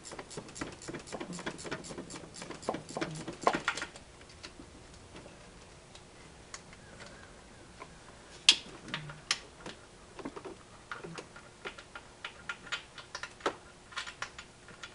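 Ratchet pawl clicking as a bell housing bolt is backed out: quick runs of clicks for about the first four seconds, then slower, spaced strokes. A single sharp metallic clink stands out near the middle.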